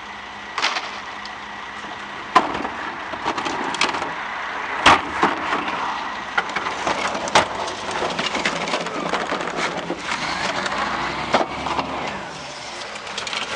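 Heil 5000 rear-loader garbage truck's packer crushing renovation debris: a steady crackling of breaking wood and material, with several sharp cracks and snaps.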